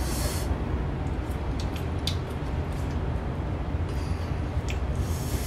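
Chewing crisp slices of young mango, with a few short crunches and mouth clicks, over a steady low rumble.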